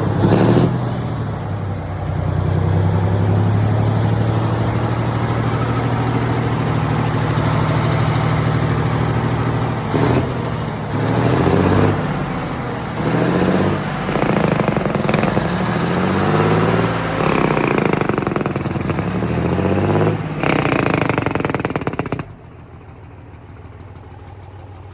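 Old-school Mack truck diesel engine running loud and steady, then revved up and down repeatedly, its pitch climbing and falling several times. About 22 seconds in it drops back suddenly to a much quieter idle.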